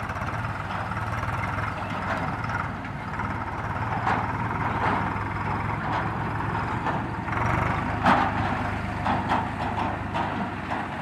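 A mini tractor's engine runs steadily, with a few sharp clicks or knocks about eight seconds in.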